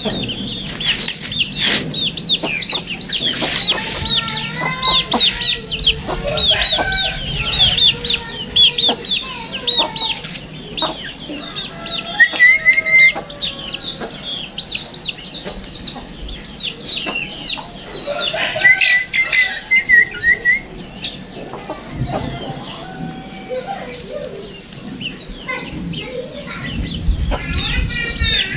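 Sooty-headed bulbul (kutilang) chirping and singing, with many quick high chirps and a few short whistled trills.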